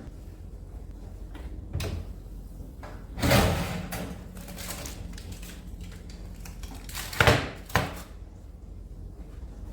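A few handling knocks and a scrape over a steady low hum: a short knock about two seconds in, a longer scrape about three seconds in, and two sharp knocks close together near the end.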